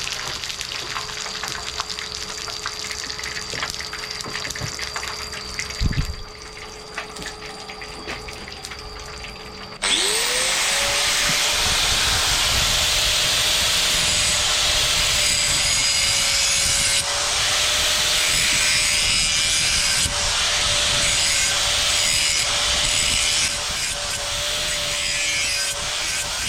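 An electric power tool spins up about ten seconds in, its pitch rising quickly and then holding steady, and then grinds or sands steadily under load. Before that there is a quieter steady hum with small clicks and one knock.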